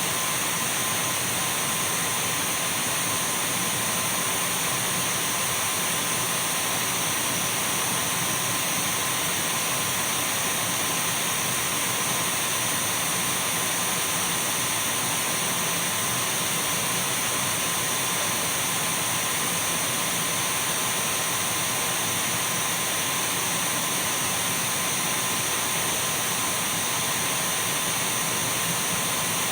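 Dyson V12 cordless stick vacuum cleaner running steadily: a constant rush of air with a thin, high whine over it.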